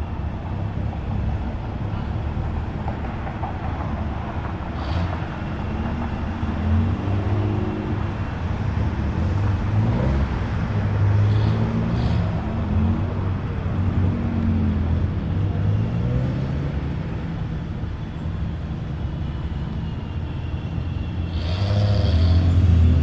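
Car engines running as cars roll in one after another, their pitch rising and falling as the drivers work the throttle. A louder engine comes in near the end.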